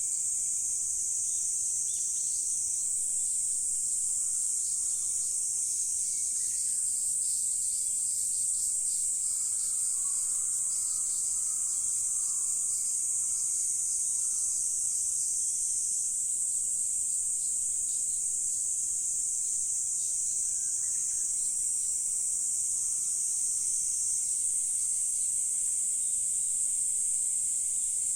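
Steady, high-pitched insect chorus, a continuous shrill buzz that never breaks, with a few faint short sounds lower down now and then.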